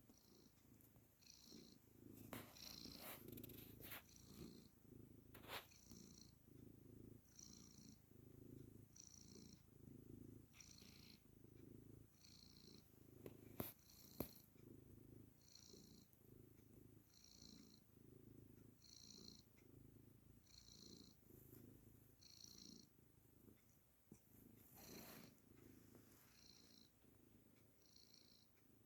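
Domestic cat purring softly, the purr swelling and fading with each breath about every second and a half to two seconds. A few faint clicks and rustles come in the first seconds, and two sharp clicks about halfway.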